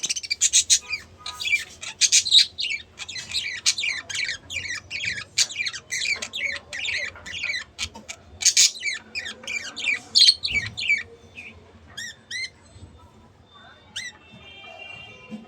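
Budgerigars chattering and warbling in quick, dense chirps that thin out to a few separate chirps after about eleven seconds.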